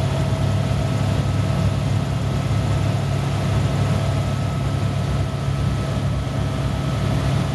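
Helicopter running steadily at power: a loud low drone with a steady whine above it.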